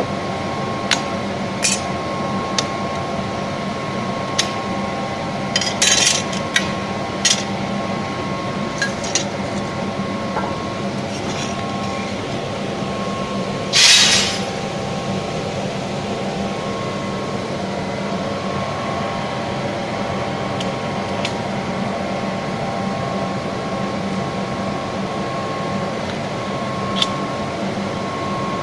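Automatic glass-cutting table working on Robax glass: a steady machine hum with scattered sharp clinks of glass, and one louder short rush of noise about halfway through.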